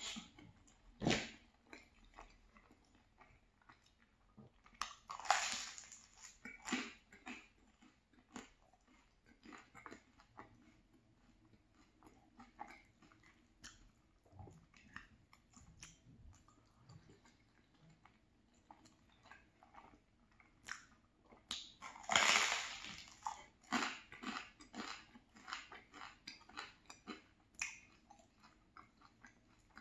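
Close-miked chewing of creamy pasta and crunchy garlic bread, with mouth noises and light clicks throughout. Louder crunching bites come about five seconds in and again a little past twenty seconds.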